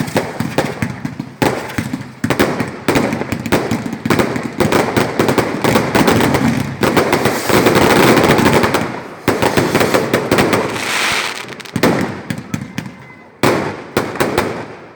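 Fireworks going off: rapid bangs and crackles, thickening into a dense continuous crackle about seven to nine seconds in, then thinning to scattered bangs.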